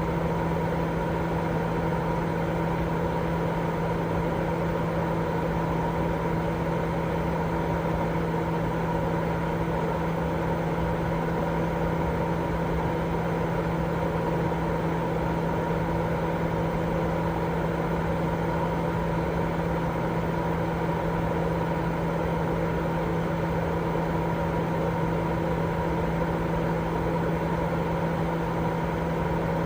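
Continuous baby-sleep white noise at an even level, weighted toward the low end, with a steady low hum and a fainter higher tone running through it, like a machine drone.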